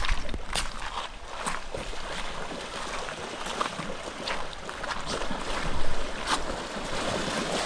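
River water rushing and splashing, with many short, irregular splashes and a louder one about six seconds in.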